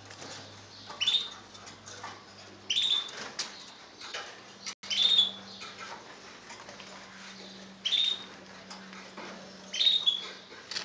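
Birds chirping: five short, sharp calls, each dropping slightly in pitch, spaced one to three seconds apart.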